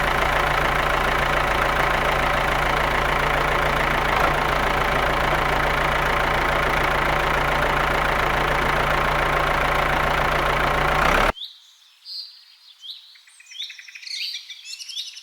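An engine or motor running steadily with a low, even hum for about eleven seconds, then cutting off abruptly. Birds chirp after the cut.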